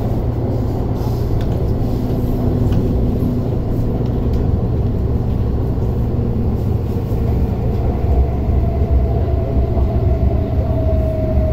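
Inside a moving MTR Tung Chung Line electric train: the steady rumble of wheels on rail and running gear as it travels at speed. A thin whine joins in about eight seconds in.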